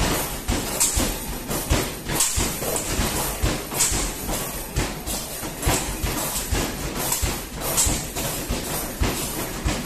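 Basketball arcade machine being played: balls thudding against the backboard and rim and rolling back, about one knock a second, with music playing.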